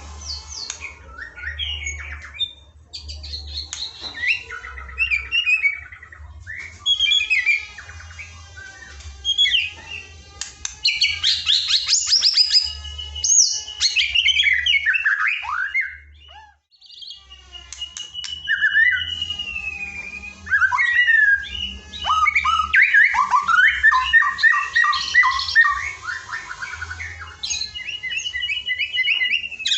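Songbird song used as masteran training material for a murai batu (white-rumped shama). It is a varied run of clear whistles, fast trills and chattering phrases with sliding notes, pausing briefly about halfway.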